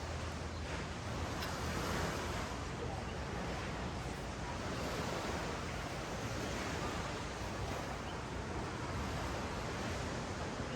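Ocean surf washing up and back on a sand beach, a steady rushing hiss that swells gently.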